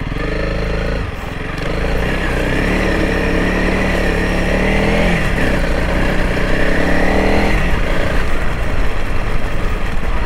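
Honda CRF300L Rally's single-cylinder four-stroke engine running as the motorcycle is ridden, the revs and loudness rising about a second and a half in and then holding steady.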